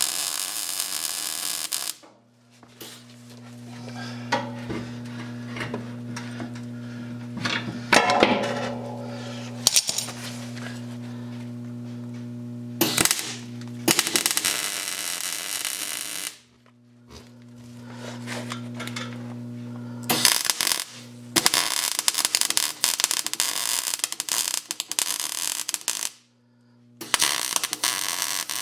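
Welder laying short runs of weld on thin steel patch panels, each run a crackling, sputtering burst. Between the runs there is a steady electrical hum.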